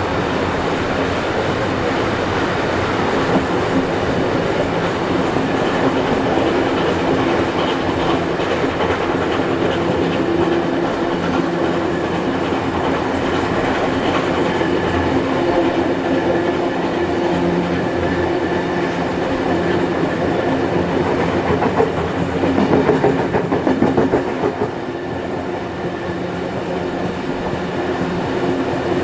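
Steam-hauled heritage passenger train running along the line, heard from on board: a steady rumble of wheels on the rails, briefly louder about three-quarters of the way through.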